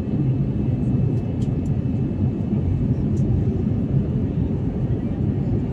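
Steady low rumble of an Airbus A321neo in flight, engine and airflow noise heard inside the passenger cabin.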